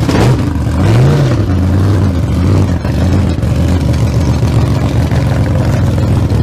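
A vehicle engine running loud and steady, revving briefly up and back down about a second in.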